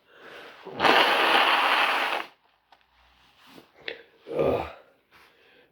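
A long, hard breath blown out through the mouth, lasting about a second and a half, from a mouth burning with chilli heat. A shorter breathy exhale follows a few seconds later.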